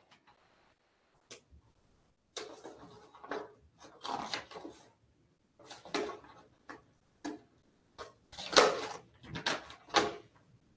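Paper documents being handled and leafed through: irregular rustles with a few short knocks and clicks.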